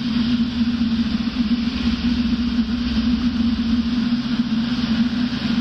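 Robinson R44 helicopter in cruise flight, heard from inside the cockpit: a steady drone of its piston engine and rotors with an even low hum and rushing noise.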